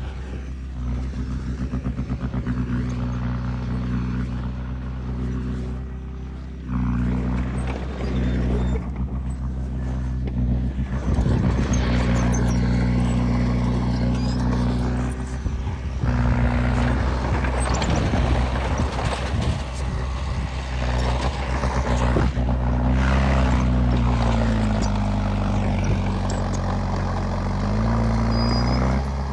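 Heavy diesel earth-moving machinery running under load, its engine note steady, with scraping and clanking noise over it. Near the end the engine pitch dips and then rises again.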